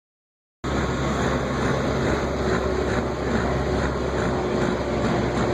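A pickup truck engine running steadily, starting about half a second in, with a steady tone running through it.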